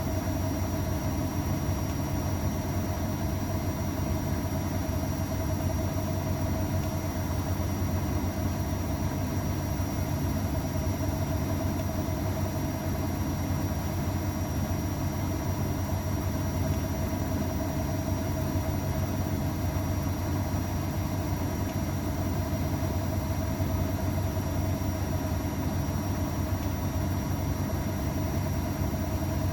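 AEG Öko_Lavamat 693 front-loading washing machine running with a steady motor hum and a few constant whining tones above it, with no change in speed.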